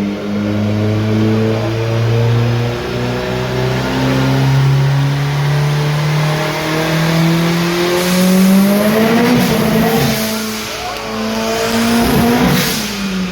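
Turbocharged 2-litre 20-valve four-cylinder engine of a Mk4 doing a slow dyno pull on reduced boost, the revs climbing gradually under load. Near the end the revs rise and fall, then there is a loud rushing burst as the engine comes off load.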